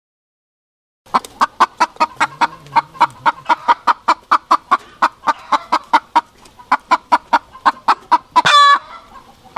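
Rooster clucking in a rapid run of short clucks, about four a second, ending in one short, higher call near the end.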